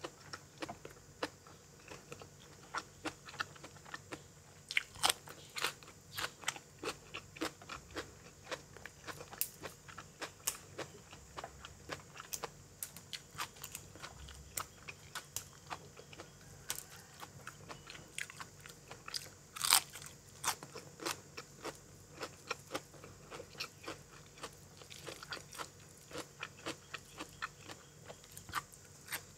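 A person biting and chewing crisp raw vegetables: a steady run of irregular crunches, with one louder crunch about two-thirds of the way through.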